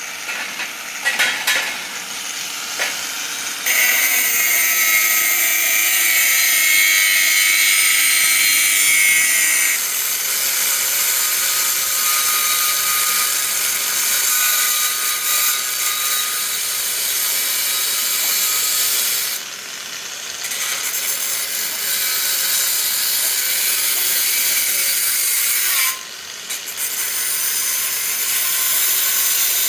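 A power tool working steel, running loud and steady with a high, hissing whine, cutting out briefly twice near the end. A few knocks of metal being handled come before it starts, a few seconds in.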